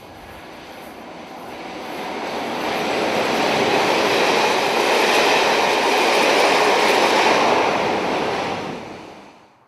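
Class 47 diesel locomotive and its train passing close by. The noise of engine and wheels on the rails swells over a few seconds, holds loud, then cuts off abruptly near the end.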